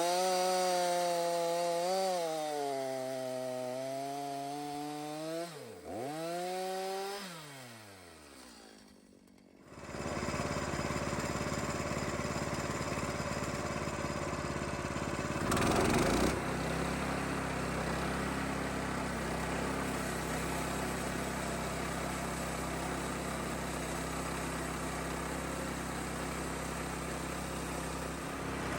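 Gasoline chainsaw bucking a white pine log in half. Its engine pitch dips and recovers as the chain bites, then falls away as the saw winds down. After a short lull, another engine runs steadily at idle through the rest, with a brief louder moment partway through.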